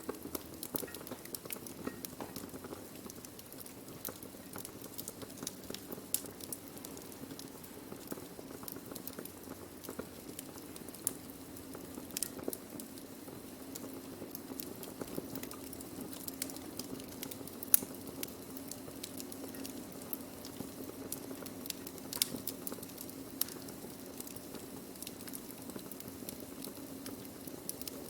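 Burning wood fire crackling: a steady low hiss and rumble of the flames with irregular sharp pops and snaps, one louder pop past the middle.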